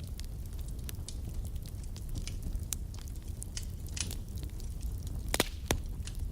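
Wood fire burning in a fireplace: a steady low rumble with frequent sharp crackles and pops, two louder pops close together near the end.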